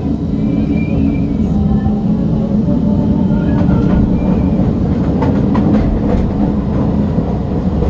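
CTA 'L' train running on elevated track, heard from inside the car: a steady low rumble, with a quick run of wheel clicks over rail joints about two-thirds of the way through.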